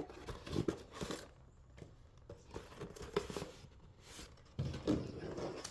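Packaging being handled and rummaged through: irregular rustling and crinkling with a few light knocks, busiest near the end.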